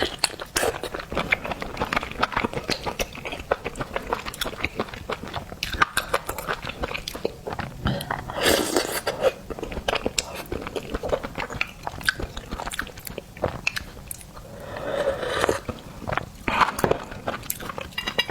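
Close-miked chewing and biting of seafood: a dense run of small wet clicks and crunches, with two longer, louder stretches about halfway through and near the end.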